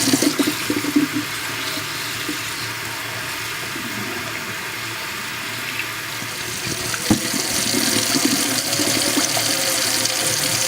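Kitchen tap running water into a bowl of raw chicken pieces as they are rinsed, a steady splashing rush, with a single knock about seven seconds in.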